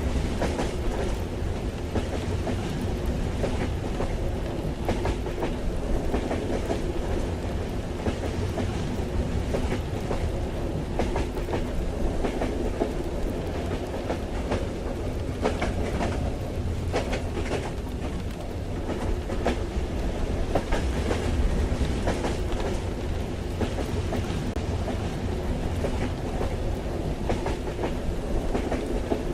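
Inside a moving train carriage: a steady low rumble from the running train, with wheels clicking irregularly over the rail joints, and rain falling against the carriage.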